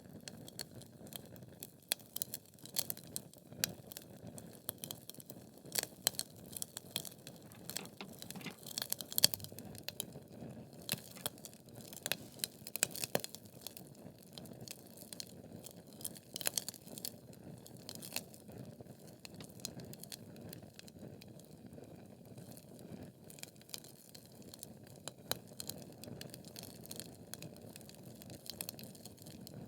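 Wood fire burning in a fireplace: logs crackling and popping at irregular intervals over a soft steady rush of flame, the pops thicker in the first half.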